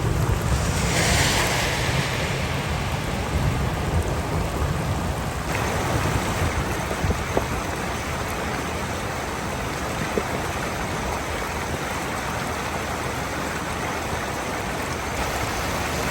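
Heavy rain falling, a steady rushing hiss, with wind buffeting the microphone as a low rumble in the first few seconds; the hiss swells brighter about a second in.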